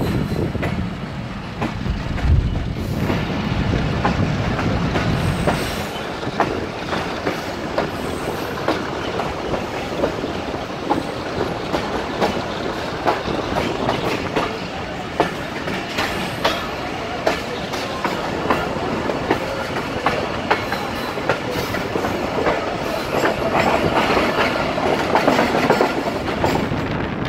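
Awami Express passenger train running on the rails, its wheels clicking repeatedly over the rail joints over a continuous rumble. The low rumble is heavier for the first few seconds, then eases off.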